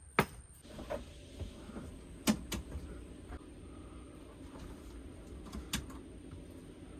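A few sharp clicks and knocks, four in all, the first near the start, two close together a little over two seconds in, and one near six seconds, over a steady low hum.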